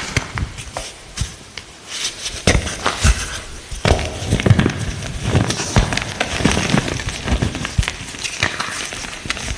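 Light green gym chalk being crushed, with crisp, crunchy cracking and crumbling in a dense, irregular run of sharp crackles.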